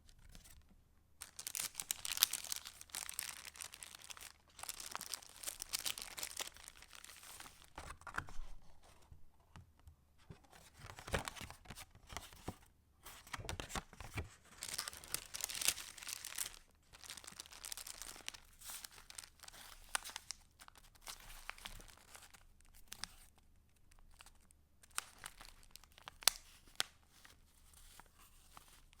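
Paper pages and inserts of a handmade junk journal being handled and turned, rustling and crinkling in irregular bursts with short pauses between.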